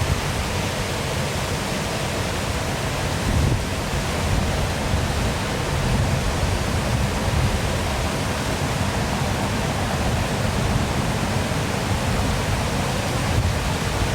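Waterfall rushing steadily: an even hiss of falling water with a fluctuating low rumble underneath.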